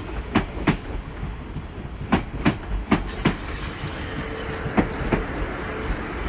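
Class 450 electric multiple unit rolling past as it arrives, its wheels clicking over rail joints in pairs over a steady rumble.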